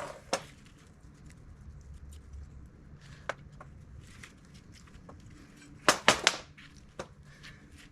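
Scattered clicks and taps from handling steel door-hinge parts and tools while fitting new hinge bushings. A quick run of three or four sharper knocks comes about six seconds in.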